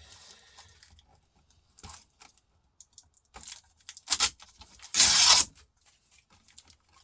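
Laptop parts being pulled apart by hand: scattered small clicks and knocks of plastic and metal, then a loud tearing rip lasting about half a second about five seconds in as a stubborn part comes off.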